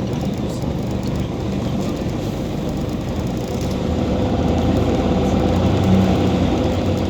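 Scania OmniCity city bus's diesel engine running as the bus drives, a steady low hum over road rumble that grows a little louder about four seconds in.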